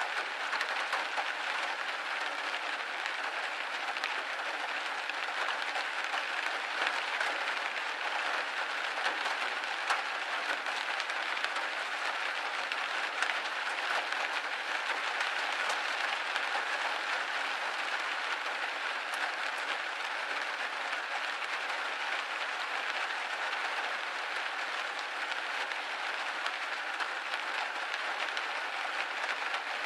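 Steady rain pattering on a window pane, a dense, even patter of many small drop taps.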